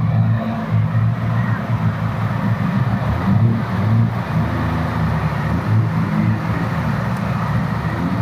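A car engine running steadily with a low, even tone, with faint voices in the background.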